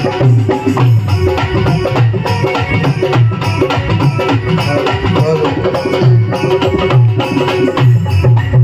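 Dholak played in a fast, steady rhythm, deep bass-head strokes mixed with quick sharp strokes on the treble head, over accompanying music.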